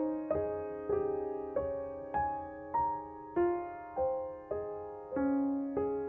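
Background piano music: a slow, even run of single notes, roughly one every half second or so, each note fading away after it is struck.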